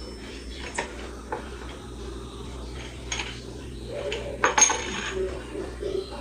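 Hard plastic and metal fan parts clicking and knocking against each other as an electric fan is assembled by hand, in scattered irregular taps with a sharper pair of knocks a little after the middle.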